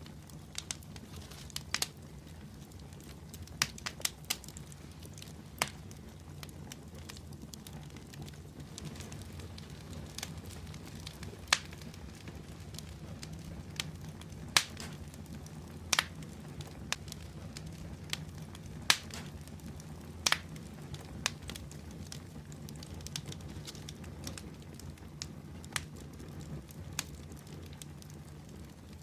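Wood fire in a fireplace burning with a steady low rumble of flames and irregular sharp crackles and pops, a few much louder than the rest.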